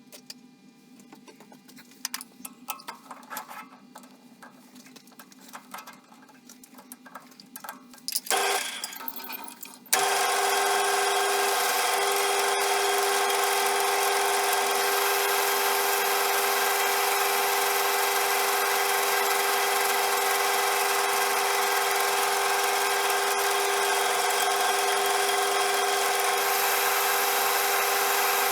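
Faint clicks and knocks of handling at the machine, then a short louder noise. About ten seconds in, a CJM360 benchtop metal lathe switches on abruptly and runs at a steady speed, its motor and gearing giving a constant hum of several steady tones.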